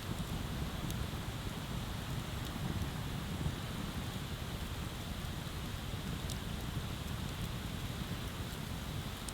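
Wood bonfire burning, with a few faint crackles and pops over a steady rushing noise.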